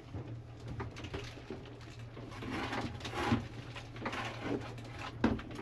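Watermaker's low-pressure feed pump running while it primes, with a steady low hum under irregular gurgling spurts as it pushes air and water out of the open line into a bucket. These are the sounds of a pump that has lost its prime and is drawing water back in.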